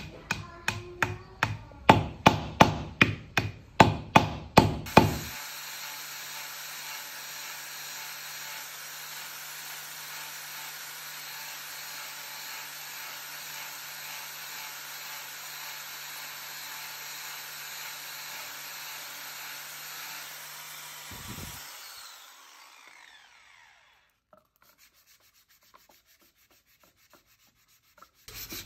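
About fifteen sharp hammer blows in quick succession, then a power sander running steadily on a wooden knife handle, a hiss over a low hum, for about sixteen seconds before it winds down and stops.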